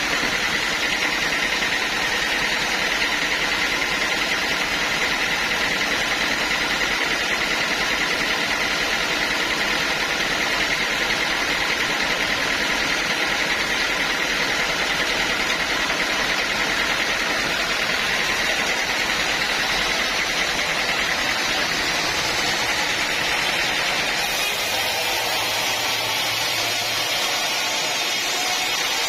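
Sawmill saw running steadily through a teak log, a loud, even machine noise with a faint steady whine. The sound changes slightly about three-quarters of the way through.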